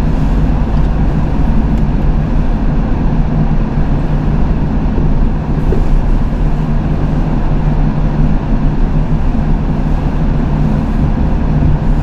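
Tow truck engine running steadily under way, a constant low drone, heard from inside the cab.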